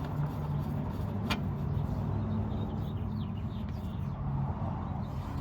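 Steady low mechanical hum, with one sharp click about a second in.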